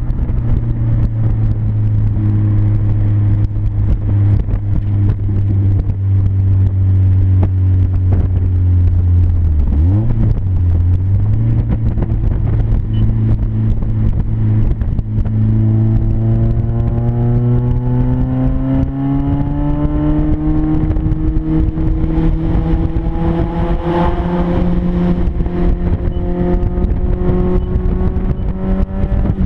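1996 Mazda Miata's 1.8-litre four-cylinder engine running loud and raw through a deliberate exhaust leak between the catalytic converter and the mid-pipe, at highway speed. The note dips and recovers about ten seconds in, then climbs steadily in pitch from about halfway as the car accelerates.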